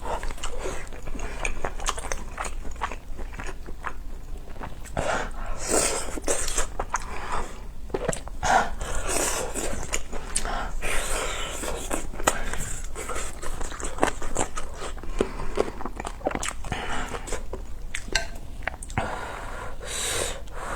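Close-miked chewing and biting of spicy ramyeon noodles, rice cakes and dumplings: irregular wet mouth clicks and smacks throughout.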